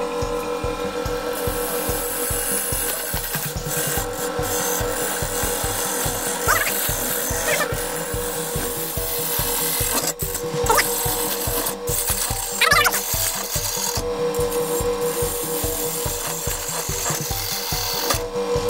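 Woodworking tool cutting and scraping wood, over background music with a steady beat of about four pulses a second.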